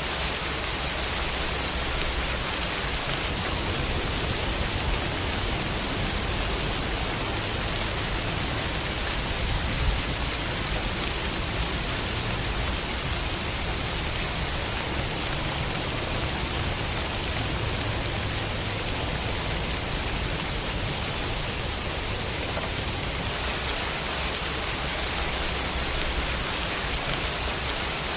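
Steady rain falling, an even hiss of drops with a low rumble underneath and one slightly louder drop or tap about ten seconds in.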